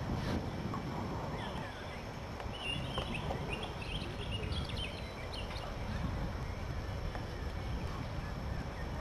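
Birds chirping several times a few seconds in, over a steady low rumble.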